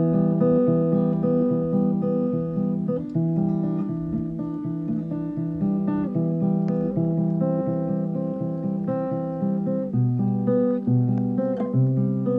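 Acoustic guitar playing a chord progression, the notes plucked and left to ring in a steady rhythm.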